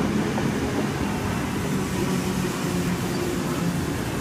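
Sydney Trains K-set double-deck electric train rolling into the platform: a steady rumble of carriages with a low hum from the train.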